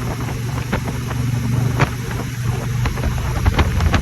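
Motorcycle engine running steadily at cruising speed, with strong wind buffeting the microphone in gusts and several sharp thumps.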